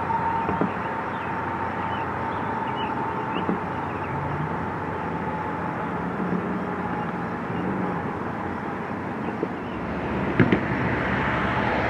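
Freight train led by two EMD six-axle diesel locomotives, a rebuilt SD30C-ECO and an SD40-3, approaching: a steady rumble of diesel engines and rolling cars with a few faint knocks, growing louder about ten seconds in.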